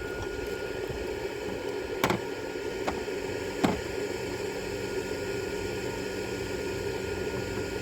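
Steady hiss and hum of background noise, broken by two sharp metallic taps about two and three and a half seconds in: a hammer striking an extractor tool set on a broken spark plug in the cylinder head.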